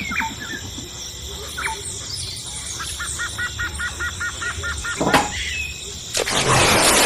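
Birds chirping, including a quick run of about ten repeated chirps in the middle. A sharp knock comes about five seconds in, then a loud rush of noise near the end.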